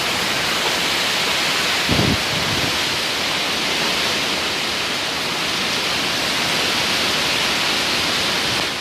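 Heavy tropical downpour: a dense, steady hiss of rain pouring down in a storm.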